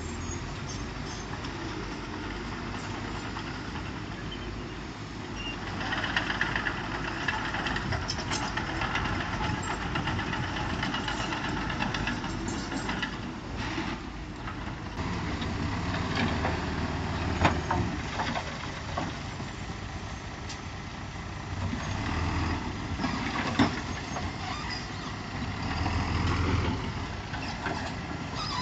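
Diesel engine of heavy earthmoving machinery running under changing load, louder from about six seconds in and rising and falling after that, with two sharp knocks in the second half.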